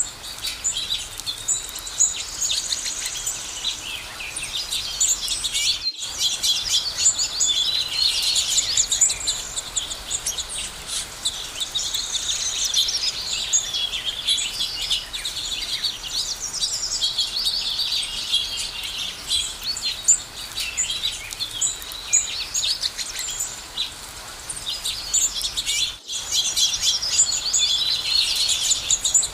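A dense chorus of birds chirping and singing together, many overlapping calls and trills, with two very brief dropouts in the sound.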